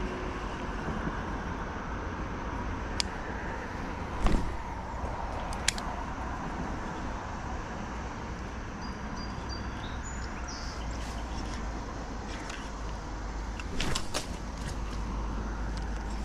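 Steady low outdoor rumble with scattered sharp clicks and knocks from handling a baitcasting rod and reel: a louder knock about four seconds in and a cluster of clicks around fourteen seconds.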